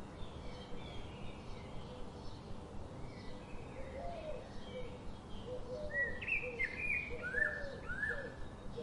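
Songbirds chirping in short, repeated high notes, with a louder run of chirps about six to eight seconds in and a series of lower, short notes from about four seconds on, over a steady background hiss and rumble.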